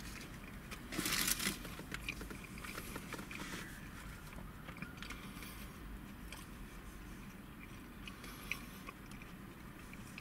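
Close-miked chewing of a thick, doughy mouthful of bread roll with mashed potato. A brief louder plastic handling noise comes about a second in, followed by light clicks and scrapes of a plastic spoon in a plastic tub.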